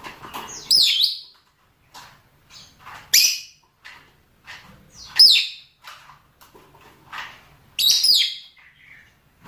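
Lovebirds (rosy-faced and Fischer's) calling for mating: four loud, shrill shrieks about two seconds apart, with softer short chirps between them.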